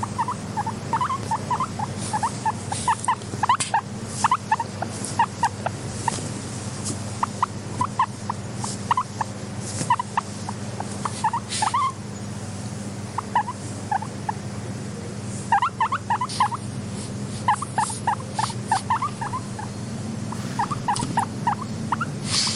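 Guinea pigs squeaking in short, quick runs of calls over a steady low hum, with scattered small clicks.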